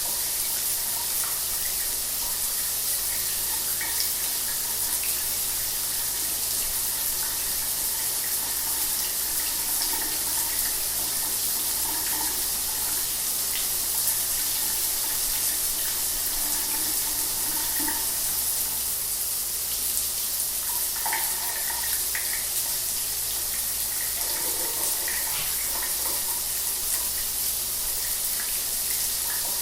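Shower water running steadily, an even hiss of spray falling, with small irregular splashes.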